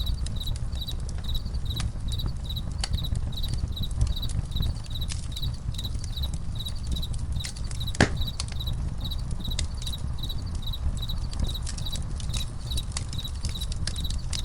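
Campfire crackling with irregular sharp pops, one much louder pop about eight seconds in, over a low steady rumble, while crickets chirp steadily in a high, even pulse about two to three times a second.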